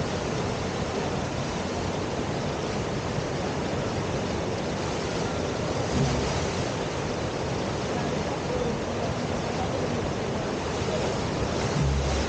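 Steady rush of the river's standing wave. There are two brief low thumps, one about halfway through and one near the end.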